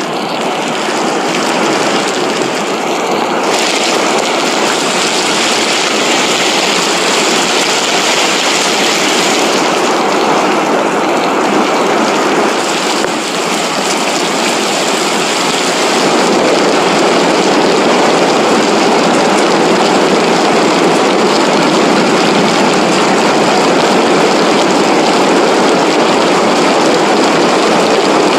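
Loud, steady rush of floodwater running down a wadi in flash flood, growing a little louder about halfway through.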